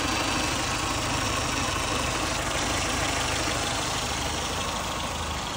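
1999 Renault Clio's 1.4 8-valve petrol engine idling steadily, running on its freshly fitted timing belt.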